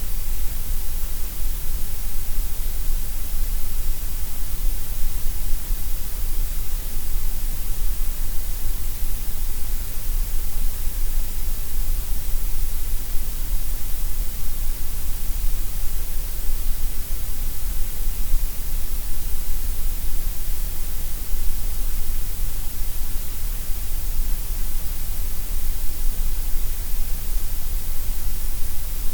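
Synthetic gray noise: a steady, even hiss that never changes, fuller in the deep lows and the highs than in the middle.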